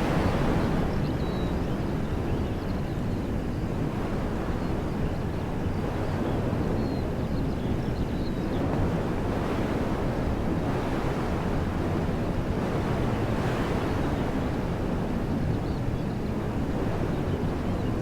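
Wind blowing through woodland trees in steady gusts, with low rumble of wind on the microphone; the rushing swells at the start and again around the middle. A few faint bird chirps.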